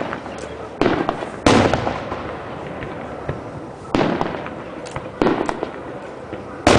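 Aerial firework shells bursting in a series of loud booms, each trailing off in echo. The loudest comes about a second and a half in, with lighter pops between.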